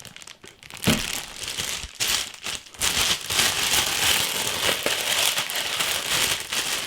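Frozen food packaging being opened and handled, crinkling: a few separate rustles, then continuous crackling from about three seconds in.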